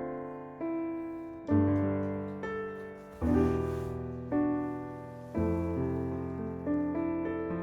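Background piano music: slow chords and notes, each struck and left to ring away.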